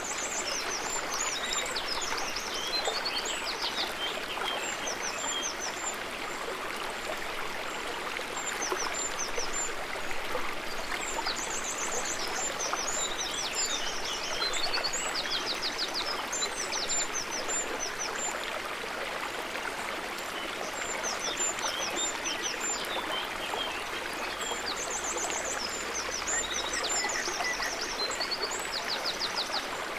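River water running steadily, with a songbird singing short chirping phrases over it that come and go every few seconds.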